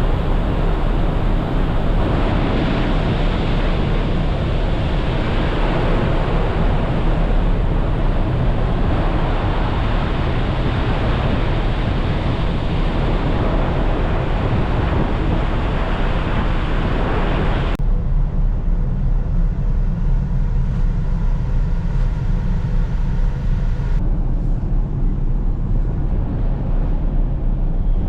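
Large car ferry under way: a steady low rumble with a rushing noise of wind on the microphone. About eighteen seconds in the rushing drops away suddenly, leaving the low rumble.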